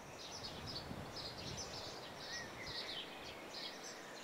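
Birds chirping in woodland: short, high calls repeating a few times a second over faint outdoor background noise.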